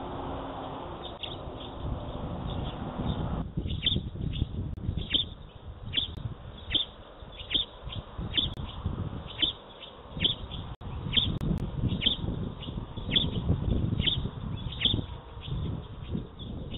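A small bird chirping over and over: short, high, falling chirps about every half second, over a low, uneven rumble. For the first three seconds or so there are no chirps, only a steady hum with low tones, the sound of a truck passing on the street below.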